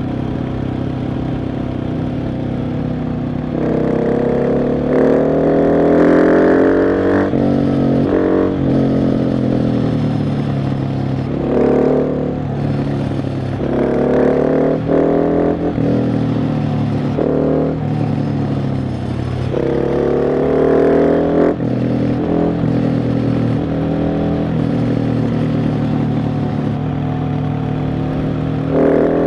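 KTM 690 SMC R's single-cylinder engine on a ride, opening up in several bursts of acceleration with its pitch climbing, then falling back as the throttle closes, again and again.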